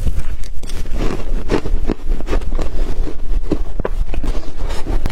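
Shaved ice being bitten and chewed: a rapid, irregular run of crisp crunches over a steady low hum.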